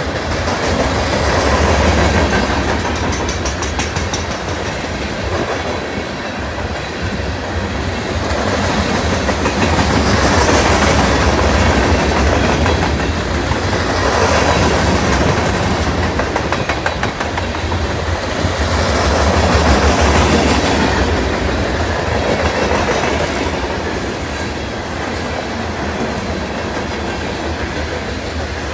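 Loaded coal hopper cars of a freight train rolling past: a steady rumble of steel wheels with clickety-clack over the rail joints, swelling and easing as the cars go by.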